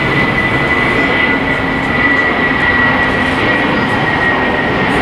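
Jet airliner engines running loud and steady, a roar with a high whine held at one pitch that sags slightly near the end.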